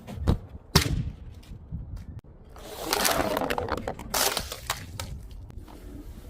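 Glass bottles breaking: a couple of sharp impacts under a second in, then a longer spell of shattering and crunching glass near the middle.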